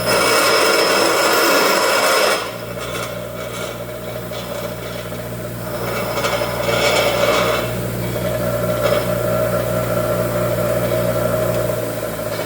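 Rasping, scraping tool work on metal, most likely on the log splitter's hydraulic cylinder during the weld repair. It comes as a loud burst of about two seconds at the start and a second, weaker spell about six seconds in, over a steady machine hum.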